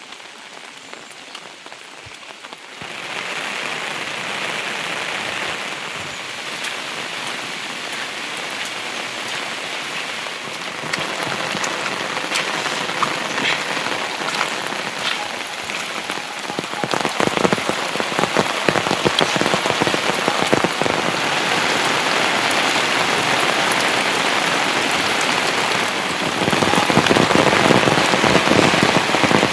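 Heavy monsoon rain pouring, a dense patter of drops striking surfaces. It steps up suddenly about three seconds in and keeps getting heavier in stages, loudest near the end.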